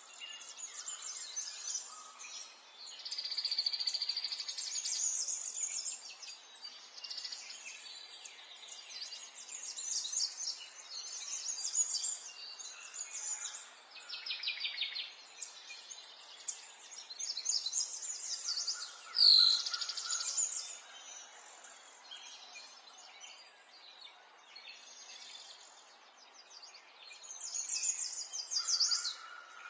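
Several birds singing, short chirps and trills in repeated phrases, over a faint steady background hiss. About two-thirds of the way through comes one loud sound that slides sharply downward in pitch.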